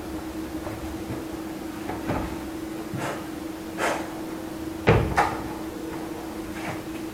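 A handful of separate knocks and clatters, like hard objects or a cupboard being handled, the loudest two close together about five seconds in, over a steady low hum.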